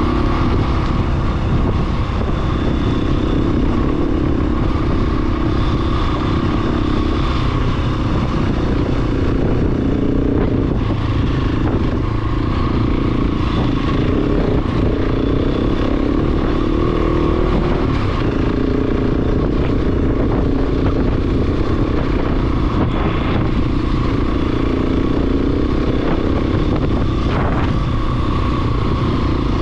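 A big single-cylinder dual-sport motorcycle engine (the 690 cc single shared by the KTM 690 and Husqvarna 701) running steadily under way, with small rises and falls in pitch and heavy low rumble from wind and the ride.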